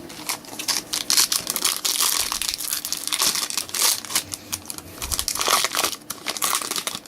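A foil trading-card pack wrapper crinkling and tearing as it is opened by hand, in an irregular run of crackles.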